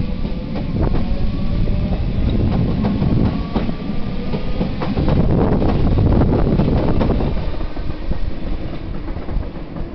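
Merseyrail electric train pulling away: a slowly rising motor whine over a heavy rumble, with the wheels clattering across rail joints. It eases off near the end.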